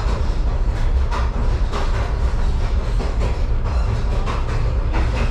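Excursion train rolling along the track: a steady low rumble with irregular clicks and knocks from the wheels roughly once a second.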